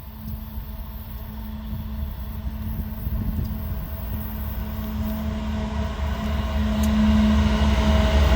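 Diesel-electric freight locomotive approaching, its engine drone growing steadily louder with a steady low hum.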